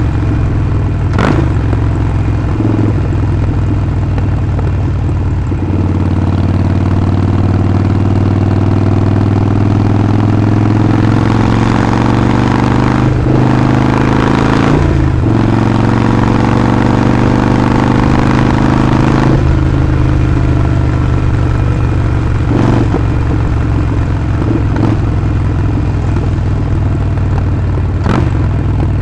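Harley-Davidson Sportster Forty-Eight's air-cooled V-twin running on the road. About six seconds in it accelerates, its pitch rising for some fifteen seconds with two short breaks, then drops back to a lower, steadier note.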